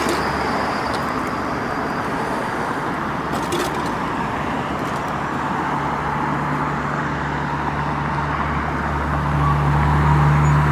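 Wind and road noise of riding a bike along a street, a steady rush over the microphone. A motor vehicle's low engine hum builds from about six seconds in and is loudest near the end.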